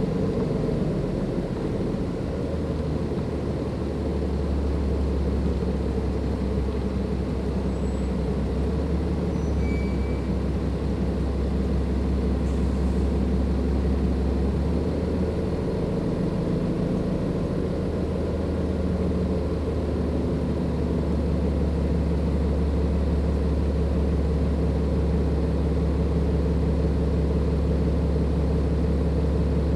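Cummins ISLe diesel engine of a Dennis Enviro 500 double-decker bus running steadily under way, with a low drone. The drone weakens briefly about halfway through, then returns and grows a little stronger later on.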